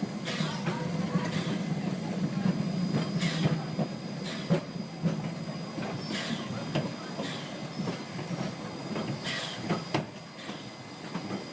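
Vintage steam train running along the track: a steady low rumble with irregular sharp knocks and clicks from the wheels and carriages every second or two.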